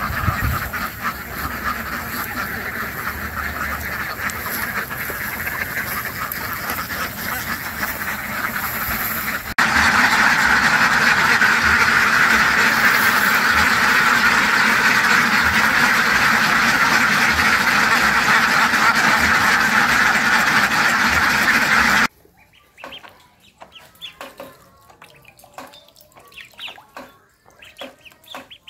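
A large flock of ducks quacking all at once in a dense, continuous din. It turns louder about a third of the way in, then drops abruptly to a few scattered calls for the last seven seconds or so.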